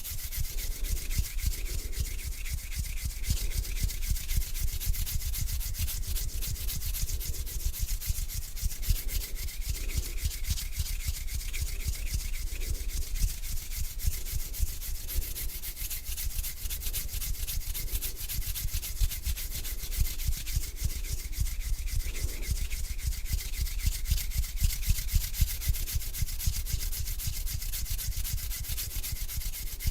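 Hands rubbing together slowly and continuously, a dry skin-on-skin swishing with slow swells of the strokes, close to the microphone.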